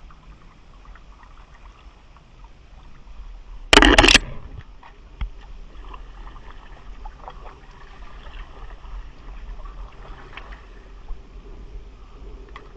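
Kayak on open water: a faint steady wash of water with a low rumble. About four seconds in, a loud half-second burst of noise cuts in, followed a second later by a single sharp knock.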